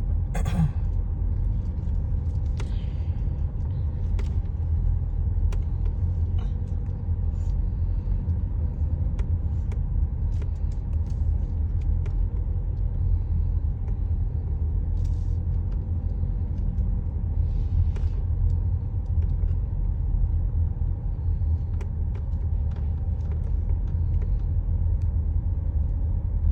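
Steady low rumble of a car's engine and tyres, heard from inside the cabin as the car rolls along, with a few faint clicks.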